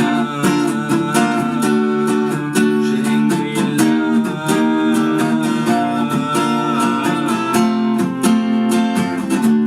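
Acoustic guitar strummed in a steady rhythm, its chords ringing, in an instrumental passage of the song.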